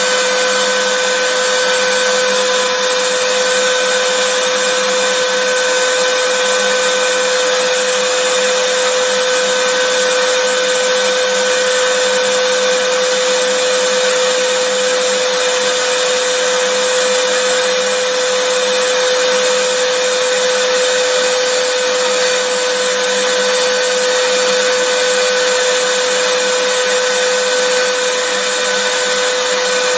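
Vacuum cleaner running steadily: a constant whine with a strong hum over an even rush of air, unchanging throughout.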